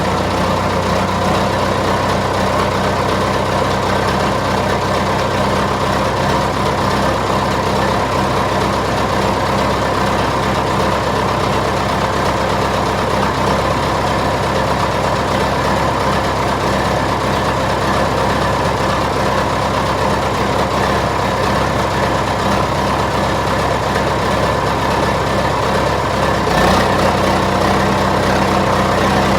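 1978 John Deere 450C crawler loader's diesel engine idling steadily through a straight pipe, still warming up after a cold start following months of sitting. A brief thump near the end slightly changes the engine's low note.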